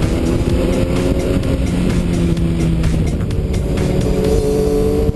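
Sport motorcycle engine running at road speed, its pitch creeping slowly upward, over heavy low wind rumble on the microphone.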